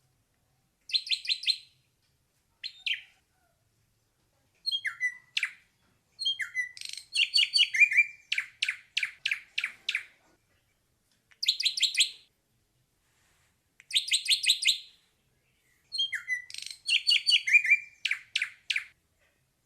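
Ashy drongo singing: short bursts of rapid, evenly repeated notes, coming every second or two, with longer runs of quick downward-sliding and harsh notes in between.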